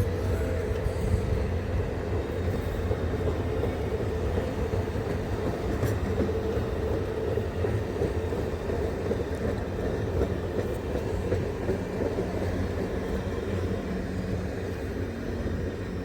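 The CPKC Christmas train rolling past, a steady rumble of cars and wheels on the rails.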